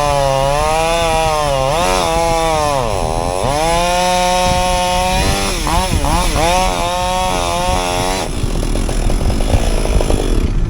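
A machine's engine running hard, its pitch dipping and recovering several times as it is loaded. About eight seconds in it stops and gives way to a dense crackling and crunching, like brush and wood being broken.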